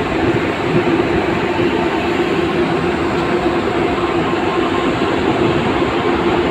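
Steady noise of a ship under way, with a constant low hum running through it.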